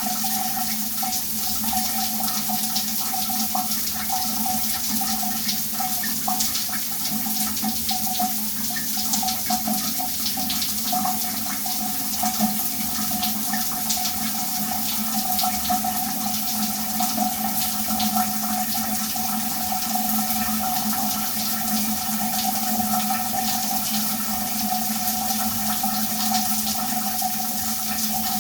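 A shower running steadily, water spraying and pattering onto a hard surface with constant fine splashing and a steady low ringing tone underneath.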